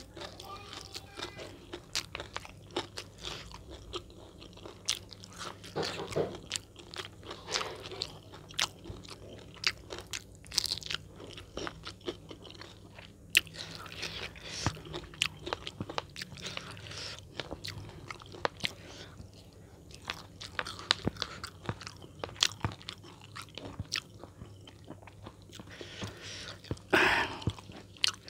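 A person eating close to the microphone: crunching, biting and chewing with many sharp crunches at an uneven pace, and a louder, longer noise near the end.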